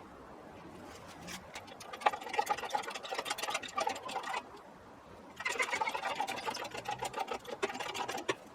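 Fast mechanical clicking and rattling in two runs of about three seconds each, from a workshop tool working on the car.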